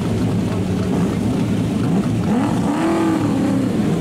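Race car engines running, with one engine's pitch rising and falling again about two and a half seconds in.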